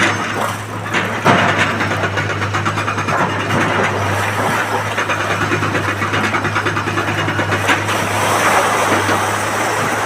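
Excavator's diesel engine running steadily under load, with a knock about a second in.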